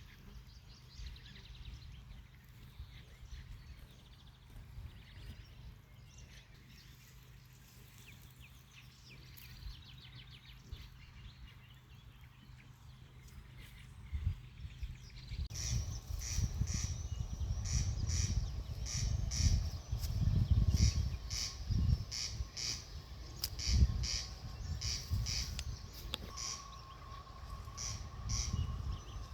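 Birds singing and calling in the open countryside. About halfway through it turns louder, with a bird repeating a high chirp over and over above an uneven low rumble.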